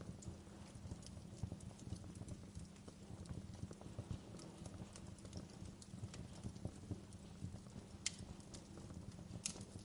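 Wood fire burning in a fireplace, crackling steadily with irregular small pops over a low rumble, and two sharper snaps near the end.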